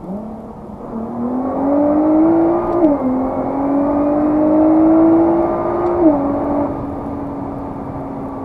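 Nissan GT-R R35's twin-turbo VR38DETT V6 accelerating hard through the gears: engine pitch climbs, drops sharply with a brief crack at an upshift about three seconds in, climbs again and drops at a second upshift about six seconds in, then settles to a steady cruise.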